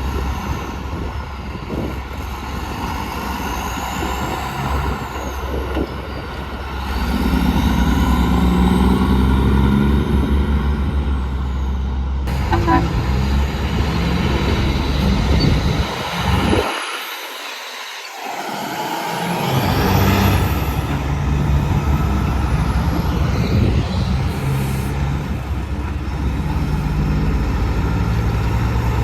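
Heavy trucks passing on a road: continuous engine and tyre rumble that grows louder about a quarter of the way in and briefly thins out a little past halfway, with faint whines rising and falling as trucks go by.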